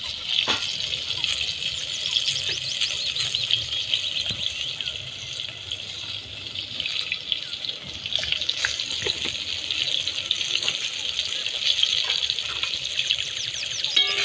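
Water running steadily, with small birds chirping repeatedly over it.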